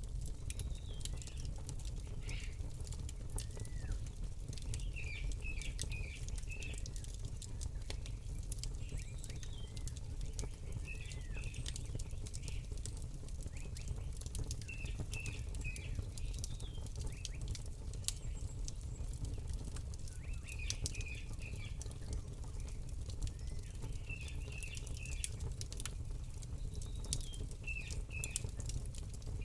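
Campfire crackling, with many small sharp pops over a low steady rumble, while a small bird repeats a short high chirping phrase of three or four notes every few seconds.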